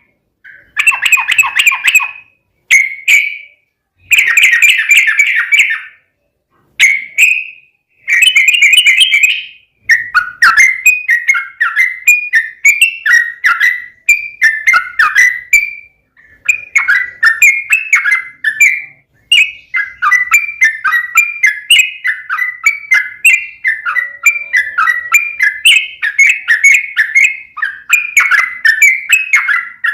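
Yellow-vented bulbul singing its long, rapid, chattering song. Short bubbly phrases with pauses between them for the first ten seconds, then an almost unbroken stream of quick notes.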